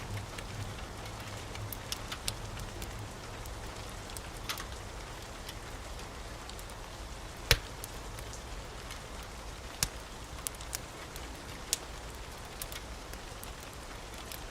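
Wood fire burning with a steady soft hiss and scattered sharp crackles and pops; one pop about halfway through is the loudest.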